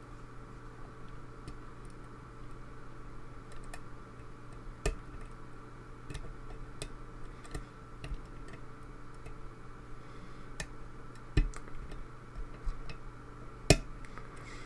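Lock pick working the pin stacks of a pin-tumbler lock under tension: irregular small metallic clicks and ticks, with a few sharper clicks about a third of the way in and near the end as pins set.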